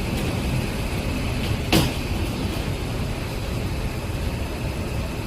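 Passenger train rolling along a station platform with a steady rumble, and a single sharp clank a little under two seconds in.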